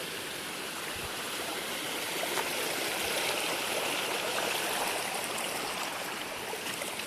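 A mountain stream running steadily, a continuous rush of water that grows slightly louder in the middle.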